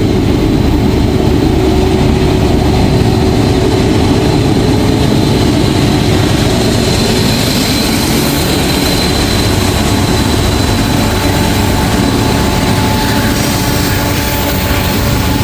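CSX mixed freight train passing close by: diesel locomotive engines running and wheels rolling on the rails, a loud, steady rumble throughout.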